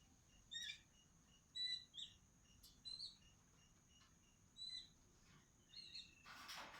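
Small birds giving short, high chirps, faint, roughly one every second, over a thin steady high tone. Near the end comes a brief rustling burst.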